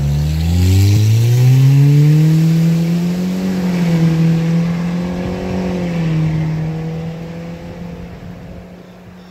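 Straight-piped exhaust of an Audi A4 2.0T turbo four-cylinder, with no muffler, resonator or catalytic converter. The engine note dips and then climbs in pitch over the first few seconds as the car accelerates, then holds a steady drone that fades away over the last few seconds.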